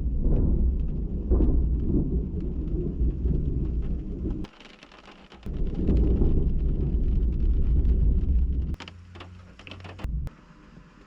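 Thunder from nearby lightning rumbling in two long, deep peals, each cut off abruptly, with rain falling. Near the end, after the second peal, it is quieter, with a few sharp ticks.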